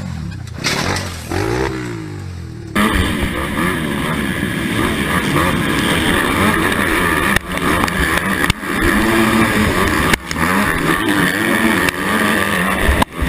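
Motocross motorcycle engine revving up and down as it is ridden, over rushing wind noise, with the sound dropping out sharply for a moment several times.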